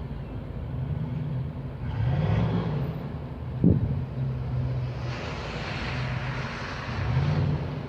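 Car engine running, its revs rising and falling twice, with one sharp click a little under four seconds in and a rush of road or passing noise in the last few seconds.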